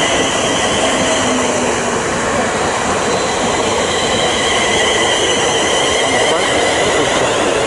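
A train moving through the station: a loud, steady rush and rumble of wheels on rail, with thin, high squealing tones over it.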